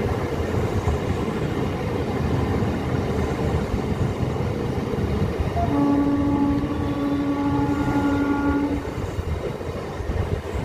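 Rumble of a passenger train running slowly through a station, heard from on board. About six seconds in, a train horn sounds one steady, even-pitched blast lasting about three seconds.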